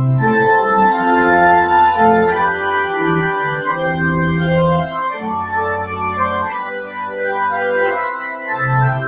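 Church organ playing the postlude after the dismissal: full sustained chords over a moving bass line, starting loudly at once.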